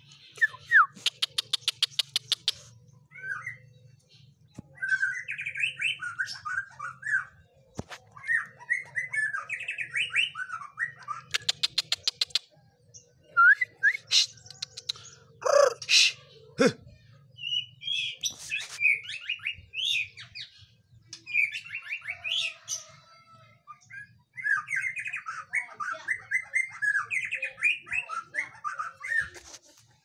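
A caged songbird singing in warbling phrases of one to a few seconds. Bursts of rapid even ticking come near the start and about twelve seconds in, and two loud sharp sounds come around the middle.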